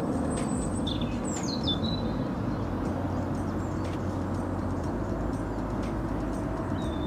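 Steady outdoor background noise with a few birds chirping: a run of short high chirps in the first two seconds and another brief chirp near the end.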